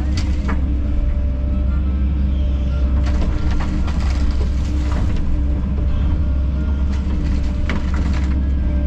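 Kobelco SK210 excavator's diesel engine running steadily while working, with a few sharp knocks and clanks from the machine.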